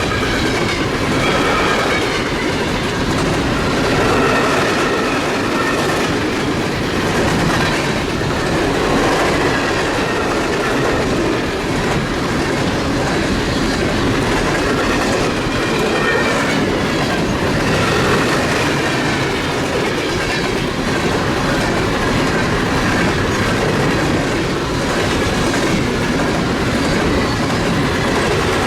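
Freight train cars rolling steadily past, their wheels clattering on the rails, with a faint high wheel squeal running through it.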